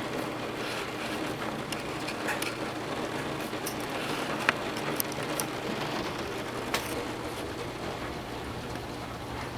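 Torrential rain falling steadily, with a few sharp taps of heavy drops striking a hard surface.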